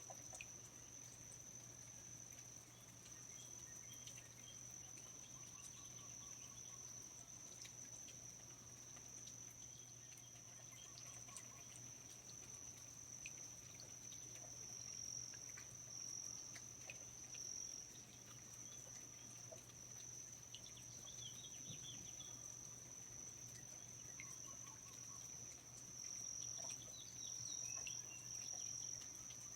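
Faint rainforest ambience: insects, likely crickets, keep up one continuous high trill, with scattered faint bird chirps and small ticks or drips over a low steady background hum.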